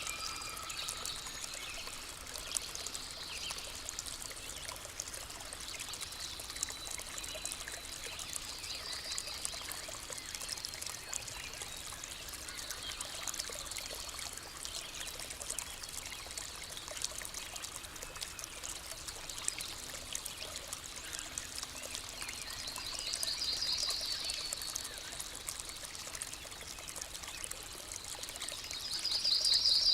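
Water of a clear forest stream trickling and pouring steadily. A few short, high, rapidly pulsing trills come in over it, the loudest near the end.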